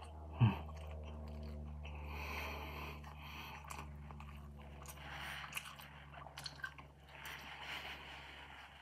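Close-up chewing and biting of roast chicken and rice, with small wet mouth clicks. A single low thump comes about half a second in.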